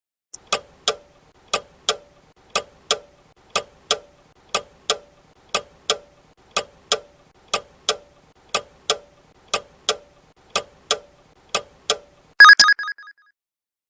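Countdown-timer sound effect: a clock ticking tick-tock, one pair of ticks a second for about twelve seconds, then a short bell ring of a few quick strikes marking the end of the 12-second answer time.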